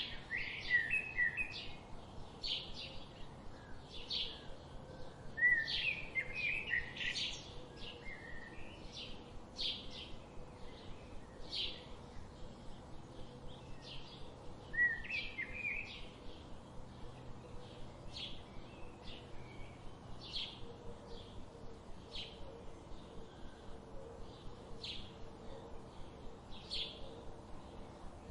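Wild songbirds: one bird gives a short high chip over and over at a steady pace, while another breaks in with warbled song phrases about a second in, around five to seven seconds, and again around fifteen seconds.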